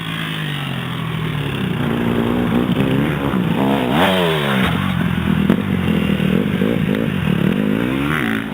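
Dirt bike engine revving, its pitch rising and falling several times as the throttle is worked, with a sharp rise and quick drop about four seconds in.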